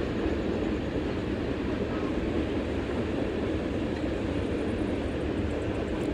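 A CN (Canadian National) train passing, a steady continuous rumble of wheels on rail.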